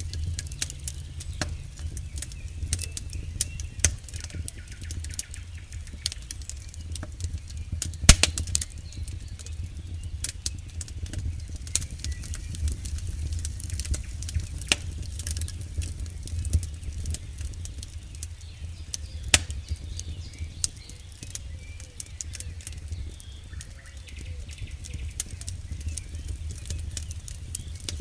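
Wood campfire crackling, with irregular sharp pops and snaps throughout, the loudest about 8 seconds in, over a low steady rumble.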